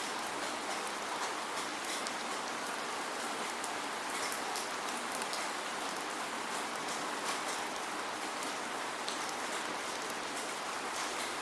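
Steady rain, with a constant hiss and scattered drops ticking on a surface, no thunder.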